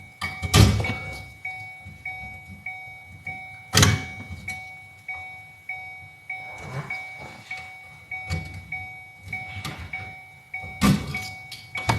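Sharp clunks and rattles of hard plastic and metal as a car seat's wiring connectors are pried at under the seat, loudest about half a second in, near four seconds and near eleven seconds. A steady electronic tone pulses at an even rate behind them.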